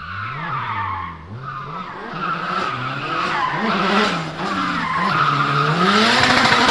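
Nissan S14's turbocharged SR20DET four-cylinder revving up and down repeatedly under throttle while drifting, with the rear tyres squealing. It gets louder toward the end as the car comes closer.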